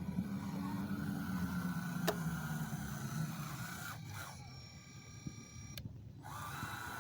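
Small electric motor of a radio-controlled construction machine running with a steady low hum, fading out after about three and a half seconds.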